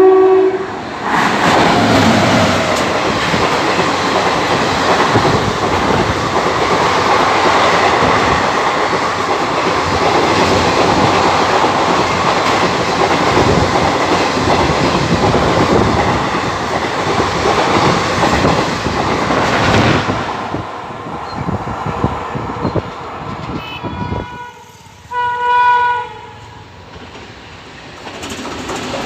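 An express train hauled by a WAP7 electric locomotive passes at speed, its coaches rushing by with wheel clatter for about twenty seconds before the sound fades. Near the end a locomotive horn sounds twice, a short faint blast and then a louder one of about a second.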